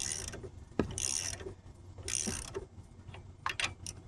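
Hand-worked metal mechanism under the car: a run of short metallic ratcheting strokes about once a second, with one sharp click about a second in.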